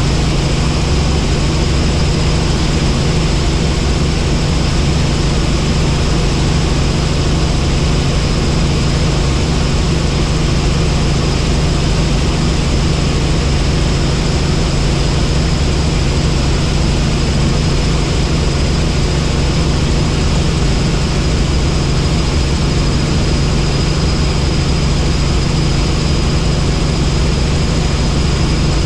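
Helicopter in flight: a steady, loud drone of rotor and engine with a thin, high, steady whine over it.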